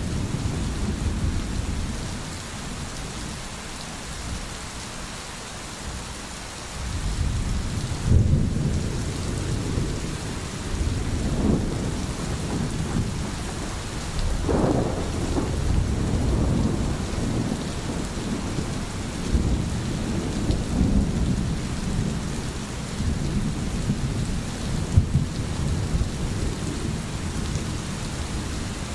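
Steady rain with rolling thunder. A low rumble swells about seven seconds in, peaks sharply a second later, and keeps rolling in surges over the rain.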